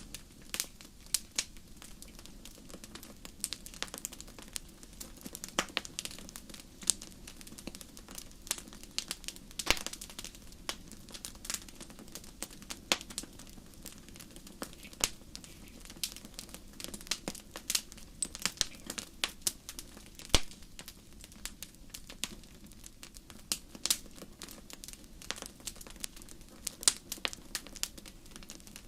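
Wood fire burning in a fireplace, crackling with frequent irregular sharp pops and snaps over a steady low hiss.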